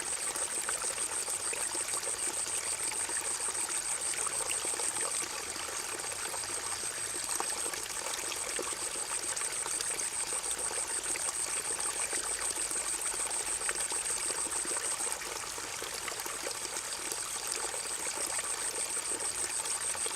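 Forest river water running steadily, with a high, fast-pulsing insect trill over it that fades out about five seconds in and again about fifteen seconds in, each time returning a couple of seconds later.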